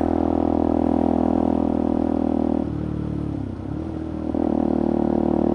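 Benelli motorcycle engine running steadily through its loud exhaust, with a baffle fitted. About two and a half seconds in, the engine note drops away and dips in pitch for a second and a half, then rises back to its steady level.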